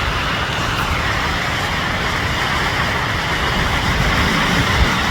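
Steady rush of water pouring over a low-head dam, an even hiss with an uneven low rumble beneath it.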